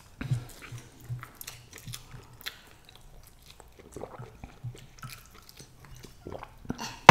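People chewing mouthfuls of stir-fried egg noodles with beef, with soft mouth sounds and small scattered clicks.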